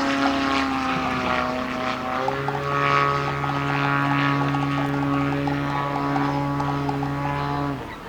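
Large-scale model Yak 54's 550cc engine and propeller running hard in flight, a steady droning note that shifts lower in pitch about two seconds in and cuts off suddenly near the end.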